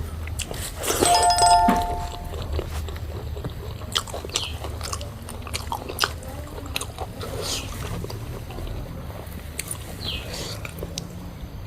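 A person chewing and biting food close to the microphone, with many small wet clicks of mouth and food. About a second in, a louder brief sound carries a steady tone for about a second.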